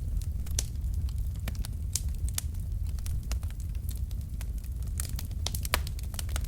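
Wood fire in a fireplace crackling: irregular sharp pops and snaps of burning logs over a steady low rumble of the flames, with one louder pop near the end.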